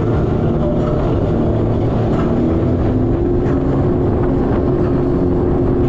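Jet ski engine running steadily at speed, its pitch climbing slightly a few seconds in, over a constant rush of noise.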